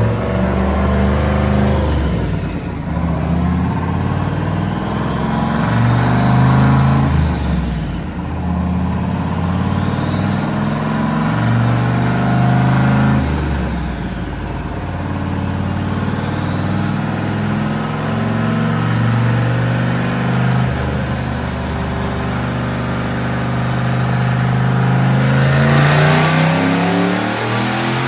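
Turbocharged OBS Ford truck's engine at full throttle on a chassis dyno, the revs climbing through the gears and dropping back at each of about four shifts. A faint high whine rises with the revs, and the last gear winds up highest near the end.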